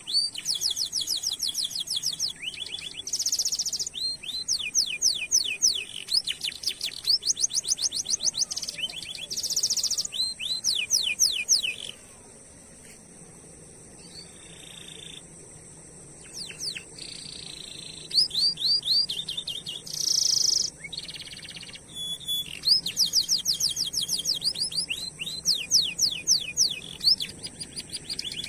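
Domestic canary singing: fast, high trills of rapidly repeated notes in phrases of a few seconds, with a pause of a few seconds about halfway through before the song resumes.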